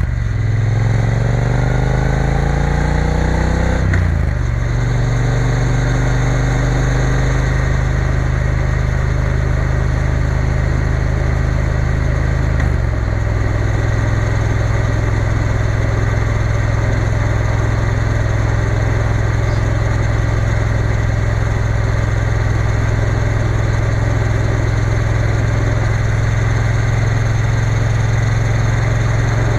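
Triumph Bonneville T120 motorcycle engine under way: it pulls up through the revs, drops in pitch on an upshift about four seconds in, steps down slightly again around thirteen seconds, then runs at a steady cruise. A steady rush of wind and road noise runs under the engine.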